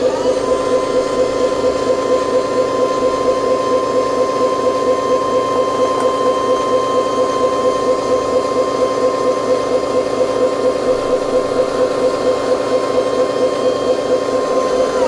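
Radio-controlled model excavator's electric motor and pump running with a steady whine and a fast, even pulse. The pitch sags briefly near the end.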